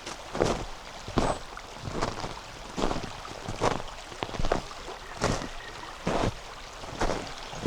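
Footsteps crunching on frozen, compacted snow at a steady walking pace, about one step every 0.8 seconds, over the steady noise of a flowing river.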